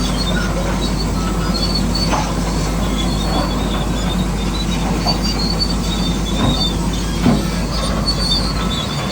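Radio-controlled construction machine's electric drive running steadily, with a continuous mechanical hum and intermittent high squeaks from its gearing and tracks, plus a few short clicks and knocks.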